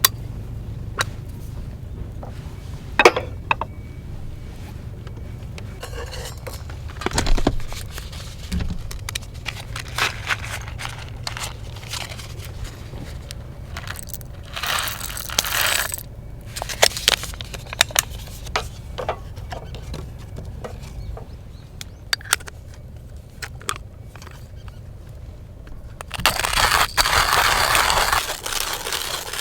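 Outdoor coffee gear being handled: scattered clinks, knocks and scrapes of utensils being set down and moved, with two longer rustling or hissing stretches, one about halfway through and one near the end.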